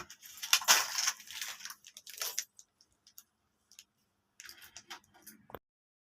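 Irregular rustling and handling noises in short bursts, heavier in the first couple of seconds, with a few faint ticks, cutting off abruptly about five and a half seconds in.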